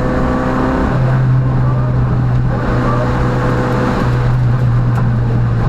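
Peugeot rally car's engine running hard at a fairly steady pitch, heard from inside the cockpit, with a brief dip about a second in.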